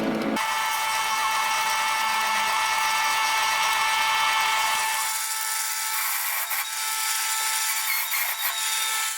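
A power tool's electric motor running with a steady high-pitched whine and hiss. The pitch steps up just after the start, and the sound cuts off abruptly near the end.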